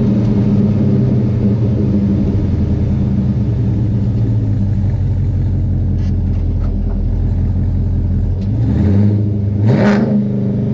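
2018 Chevrolet Silverado's engine through an equal-length exhaust, idling steadily, then blipped twice near the end, pitch rising and falling back each time.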